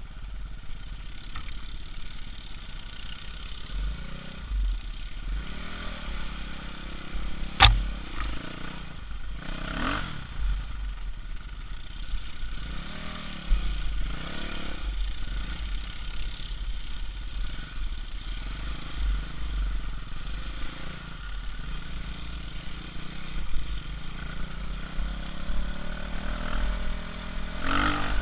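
Off-road motorbike engine revving up and easing off again and again over rough ground, with a low rumbling buffet on the action camera's microphone. A single sharp knock stands out about seven and a half seconds in.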